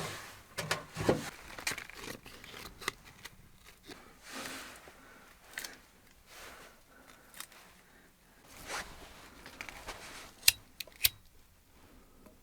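Close handling sounds: a run of short scrapes, rustles and clicks, with two sharp clicks close together near the end.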